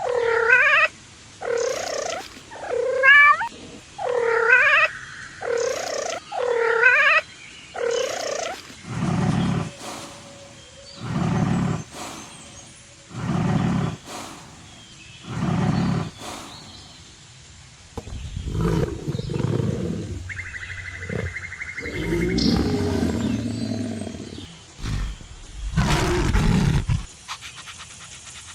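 A cat meowing about seven times in quick succession, followed by four deeper calls about two seconds apart and then a stretch of less regular animal noises.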